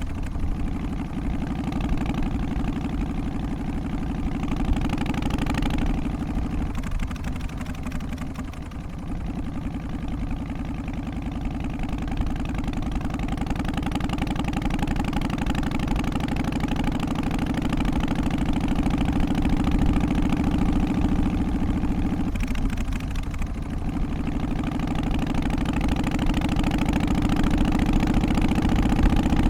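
Harley-Davidson FXST Softail's Twin Cam 88 V-twin running, its pitch climbing slowly. The sound dips briefly about seven seconds in and again about twenty-two seconds in.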